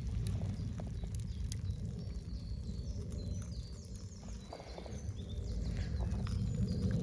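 Forest ambience: small birds chirping in quick high runs through the middle, over a steady low rumble with scattered light clicks.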